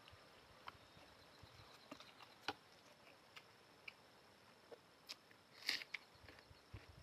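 Quiet noodle-eating sounds: a few scattered sharp clicks and, about two-thirds of the way through, a short noisy burst.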